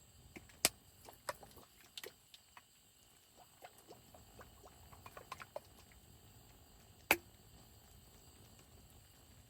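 Scattered light taps and clicks of small objects being handled, with a sharp knock shortly after the start and another about seven seconds in.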